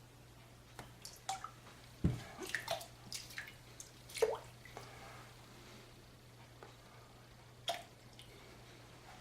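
Bloom water being tipped out of a tub of hard shave soap: scattered drips and small splashes. They are busiest from about two to four and a half seconds in, starting with a light knock, and one more comes near the end.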